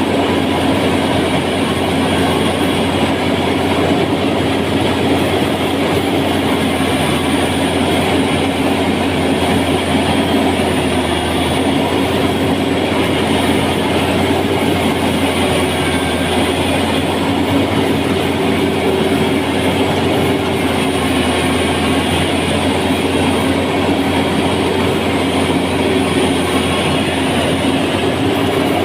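A machine's engine running steadily, with a constant drone and no change in pace.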